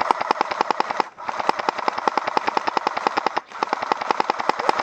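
Airsoft gun firing on full auto: a fast, even rattle of shots in long bursts, with short pauses about a second in and again about three and a half seconds in.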